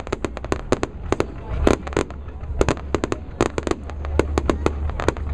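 Fireworks going off in quick succession: an irregular string of sharp bangs and pops, several a second, over a steady low rumble.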